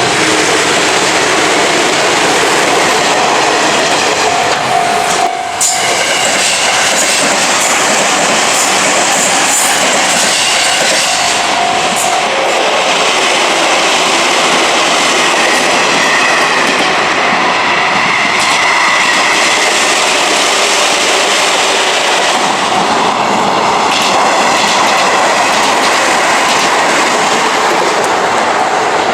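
A train on the Izu-Hakone Railway Sunzu Line passing close by at a level crossing, its wheels clattering over the rails in a continuous loud rush. A thin wheel squeal rises above it now and then.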